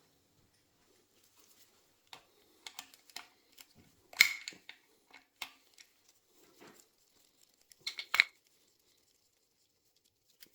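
Scattered metallic clicks and clinks of hand tools working on a motorcycle engine's cylinder head, with two louder ringing metal knocks about four seconds in and about eight seconds in.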